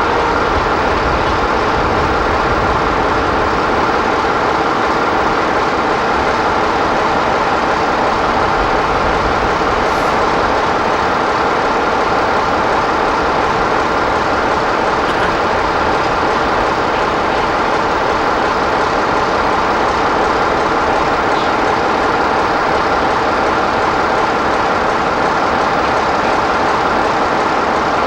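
BR Class 60 diesel locomotive's Mirrlees engine running with a steady, even drone.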